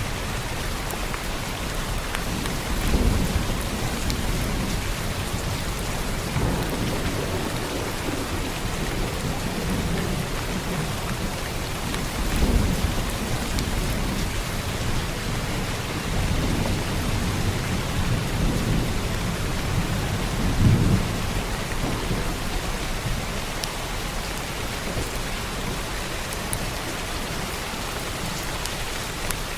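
Heavy rain falling steadily, with low rolls of thunder swelling and fading several times.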